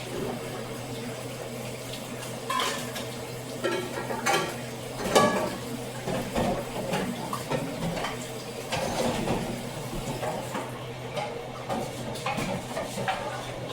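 Dishes, pots and cutlery clinking and knocking as they are handled, a series of irregular clatters with brief ringing, the loudest about five seconds in, over a steady low hum.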